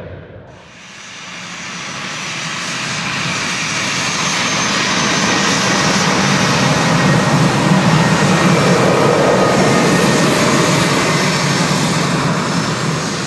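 Jet airliner's engines passing by, a steady rushing noise with a faint high whine that swells from low to its loudest in the middle to later part, then eases slightly near the end.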